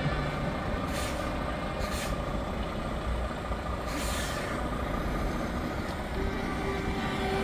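Truck diesel engines running, with three short air-brake hisses, about one, two and four seconds in. A steady horn-like tone sets in near the end.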